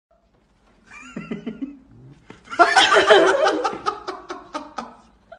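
Loud human laughter in a rapid run of bursts, starting about two and a half seconds in and tapering off. It is preceded about a second in by a shorter wavering, high vocal sound.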